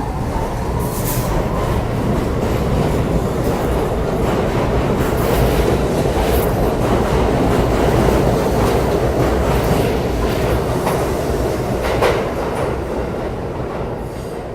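R68 New York City subway train running in the station: a loud, continuous rumble of wheels on rail with repeated clicks, one sharper clack about twelve seconds in, getting quieter near the end.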